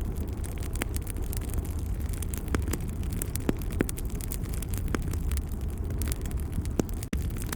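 Wood fire crackling in a fireplace: a steady low rumble with scattered sharp pops and crackles. The sound cuts out for an instant about seven seconds in.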